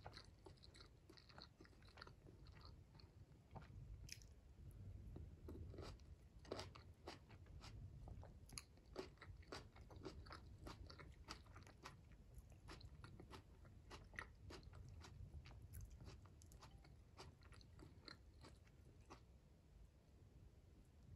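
A person chewing a cherry tomato close to the microphone: many small, irregular wet clicks and crunches of biting and chewing.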